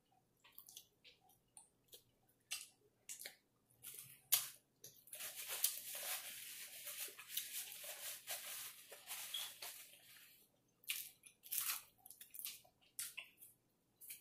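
Soft, close-up chewing and wet mouth sounds of a person eating barbecue ribs: scattered smacks and clicks, with a denser stretch of chewing noise in the middle.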